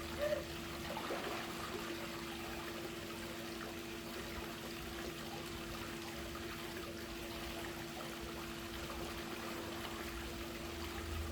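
Swimming pool water trickling and splashing steadily, over a constant low hum.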